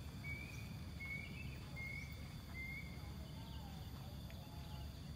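A bird repeating a short, high, slightly rising call about every three-quarters of a second, stopping a little past halfway. Under it runs a faint, steady outdoor background noise.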